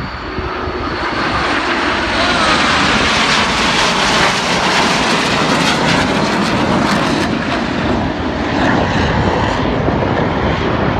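Fixed-wing aircraft flying past at an air show, a loud engine roar building over the first two seconds and then holding, with a pitch that falls about two seconds in as the aircraft passes.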